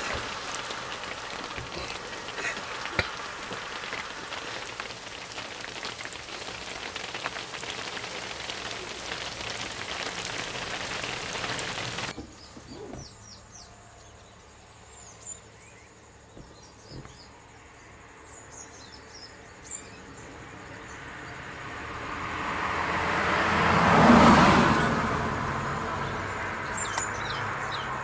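Steady hiss of rain for the first part, then an abrupt change to quieter outdoor ambience with birds chirping. A motor vehicle approaches and passes close by, swelling to its loudest a few seconds before the end and then fading.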